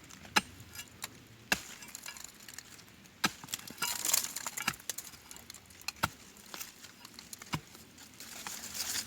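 About six sharp, irregular knocks of a digging tool striking the wood and roots of a serut stump, with crackling and rustling in between.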